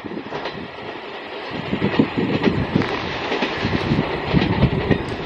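Goa Express passenger train running past close by, its coach wheels clattering rapidly over the rail joints with a steady rumble. It gets louder about a second and a half in.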